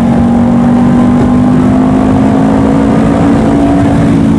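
Honda CBR500R's 471 cc parallel-twin engine running under way at a steady cruise, its note rising slightly, with wind rushing over the rider's microphone.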